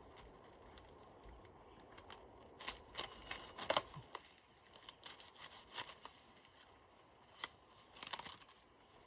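Cabbage leaves being torn and snapped: a run of crisp crackles and snaps, loudest a little before halfway, with another short cluster near the end.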